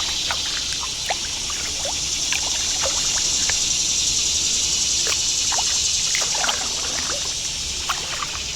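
Kayak paddle strokes on moving water, with water dripping and trickling off the paddle in many short splashes, over a steady high-pitched hiss.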